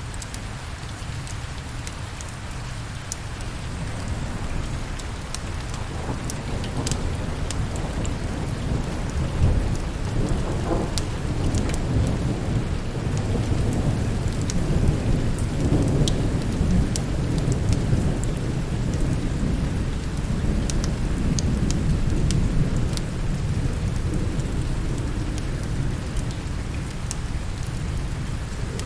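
Steady rain with a long, low roll of thunder that builds a few seconds in, rumbles on through the middle and slowly dies away. Sharp clicks are scattered throughout.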